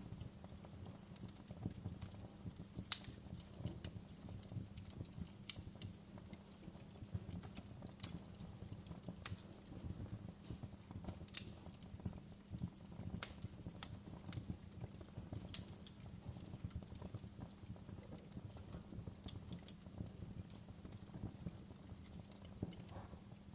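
Wood fire crackling in a fireplace: irregular sharp pops and snaps, a louder pop about three seconds in, over a steady low rumble of burning.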